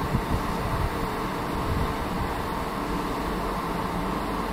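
Train running, a steady rumble with an even hum that holds level throughout.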